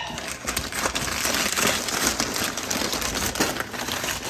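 Continuous crinkling and rustling as fiberglass insulation batts and their paper facing are handled and unrolled.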